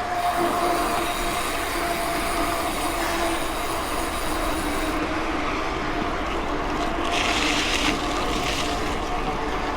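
Mountain bike rolling along a road, heard close on an action camera: tyre rolling noise and rushing wind with a steady hum throughout, and a brief louder hiss about seven seconds in.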